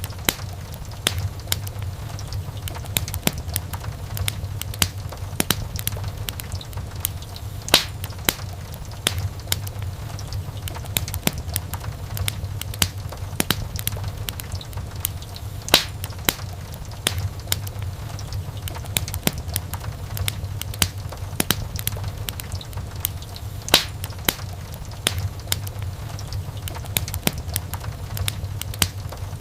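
Wood fire crackling: many small, irregular pops and snaps over a steady low rumble of the flames, with a few louder pops standing out.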